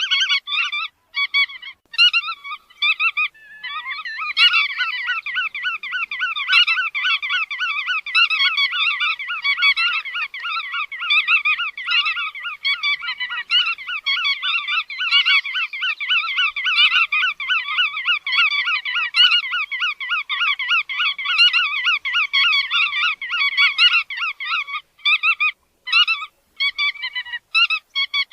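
Call of the bird known in Vietnamese as chắt đuôi vằn: a loud, fast, unbroken chatter of quickly repeated notes, with short breaks just after the start and again near the end.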